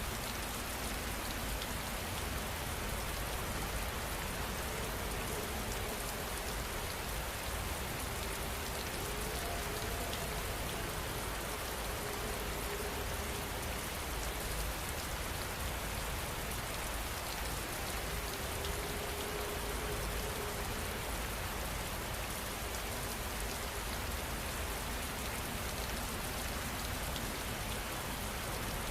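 Heavy rain falling steadily, an even hiss of drops striking surfaces with no let-up.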